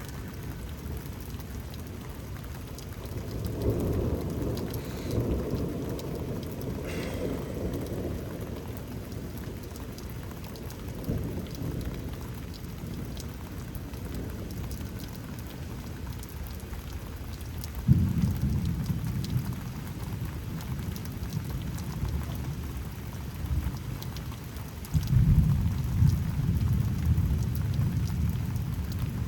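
Steady rain falling during a thunderstorm, with thunder rumbling: a low rumble swells a few seconds in, then two louder low rumbles begin abruptly about 18 seconds and 25 seconds in.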